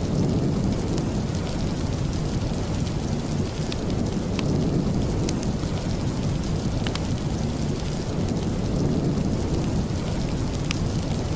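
Steady rain, a dense even rush heaviest in the low end, with scattered sharp ticks every second or so.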